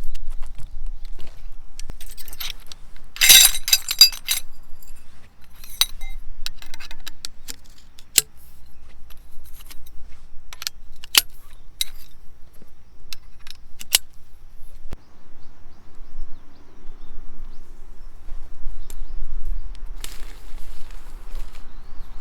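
Small hard objects, likely metal, clinking and rattling as they are handled: a burst of jangling about three seconds in, then scattered sharp clicks, quieter after about fifteen seconds.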